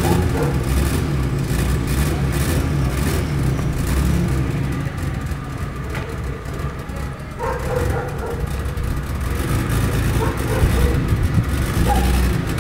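BMW sedan's engine running steadily at low revs as the car is eased into a parking spot, a continuous low rumble.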